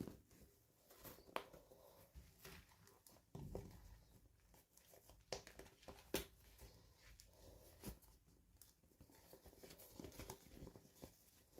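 Faint, scattered clicks and light rustling of toy packaging being handled and opened, with a few sharper ticks among them.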